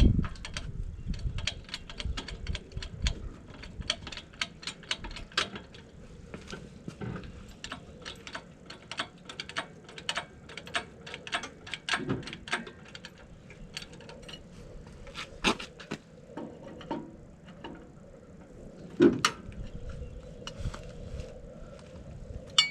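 Irregular metal clicking and clinking, several clicks a second, with a louder knock about nineteen seconds in. Wind rumbles on the microphone at the start.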